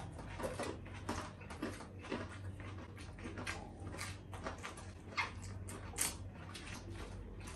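Close-miked eating sounds: wet, smacking chews of fried chicken and rice at irregular intervals, with a couple of louder smacks about five and six seconds in.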